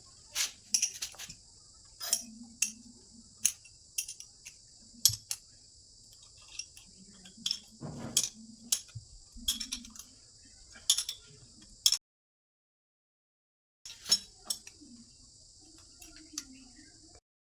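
Irregular metal clinks and taps of tools and fittings being handled during a pressure-pipe change on a bike-washing pressure washer, over a steady high hiss. The sound cuts out completely about twelve seconds in and again near the end.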